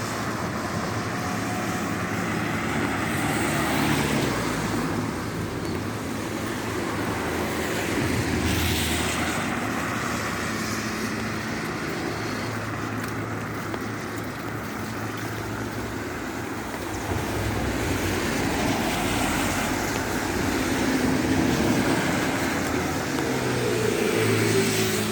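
Car driving on rain-wet streets: the engine runs steadily, its note shifting up and down, over a continuous hiss of tyres and rain.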